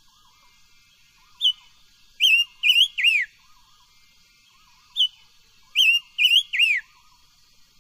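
A cage songbird of the kind sold in Vietnam as 'chim ngũ sắc' singing two loud phrases of clear whistles. Each phrase is a short note followed by three slurred whistles, the last one falling. A faint, lower warbling repeats quietly under them.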